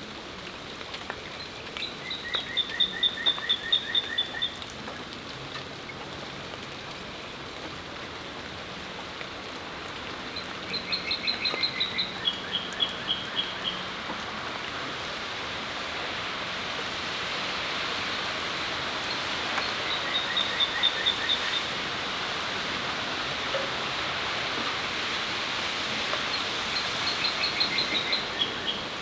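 Steady rain hissing on a patio, growing a little heavier partway through. Over it a songbird sings four times, each song a quick run of repeated notes at one pitch that then switches to a run at another pitch.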